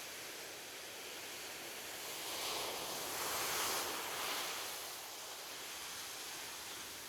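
Ocean waves washing onto a beach: a steady hiss of surf with one wave swelling in about two seconds in, peaking midway, and receding.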